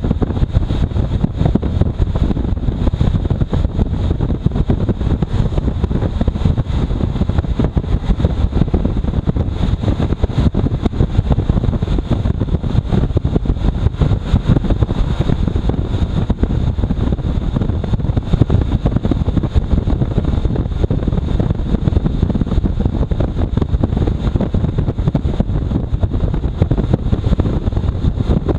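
Wind buffeting the microphone on a moving motorcycle, a steady loud rumble with fast flutter and the engine and road noise underneath.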